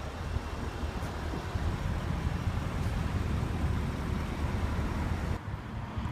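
Outdoor background noise: a steady, uneven low rumble with no clear engine tone, which drops away abruptly shortly before the end.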